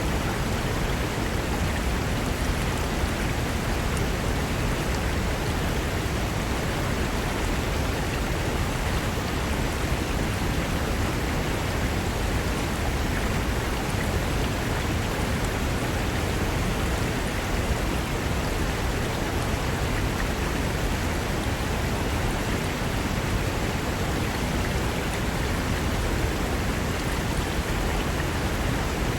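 Mountain river rushing over rocks: a steady, unbroken rush of water with no changes.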